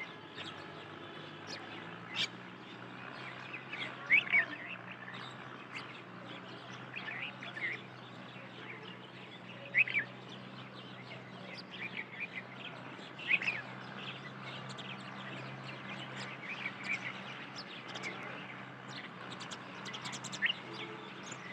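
Wild birds chirping in short, scattered calls, a few at a time with gaps between, over a steady low hum.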